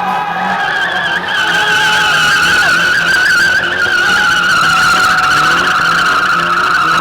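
Car doing a burnout: tyres squealing in one long wavering screech over the engine held at high revs, getting louder about a second in.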